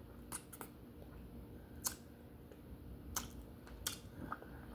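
Close-up chewing of tough baked duck head skin, with a few sharp wet mouth clicks and smacks spread through it.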